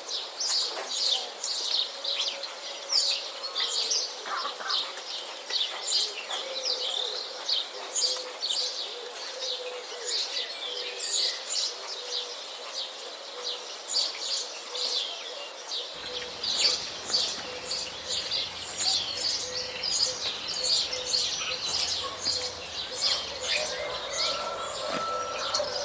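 A dense chorus of many small birds chirping and twittering rapidly and continuously, with a faint steady low hum underneath.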